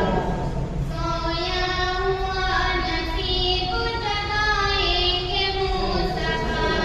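A high voice singing a naat, drawing out long, slowly gliding notes, over a steady low background.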